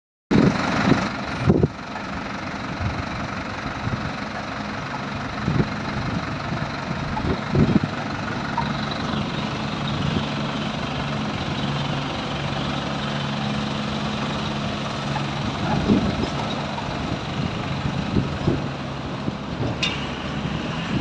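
FAW 9.130FD tipper truck's diesel engine idling steadily, with a few short thumps now and then.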